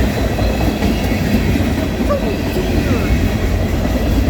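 Freight train cars rolling past close by: a steady, loud noise of steel wheels running on the rails.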